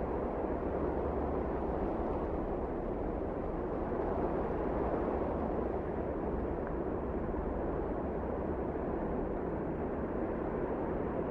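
Wind blowing steadily, a low, even rushing with no distinct gusts.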